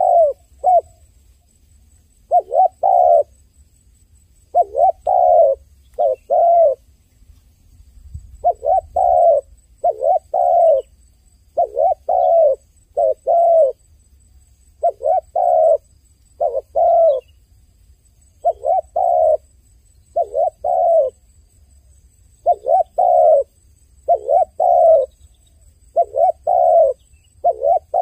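A dove cooing over and over. Each phrase is two or three low coos, and a new phrase comes every second or two.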